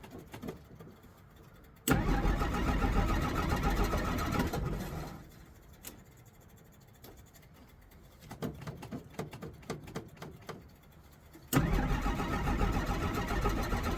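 1963 Jeep Gladiator engine being cranked over by the starter in two tries: the first starts abruptly about two seconds in and dies away after about three seconds, the second starts near the end. It is a hard start: the engine will not catch and stay running.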